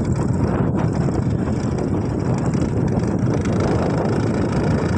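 Steady low noise with no distinct tones, of the kind made by wind on a microphone or by a moving vehicle.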